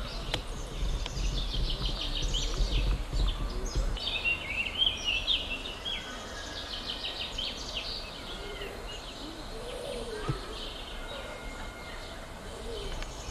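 Songbirds singing in the trees: many quick high chirps and trills, busiest in the first half and thinning out later, over a steady outdoor hiss. A low rumble underlies the first few seconds.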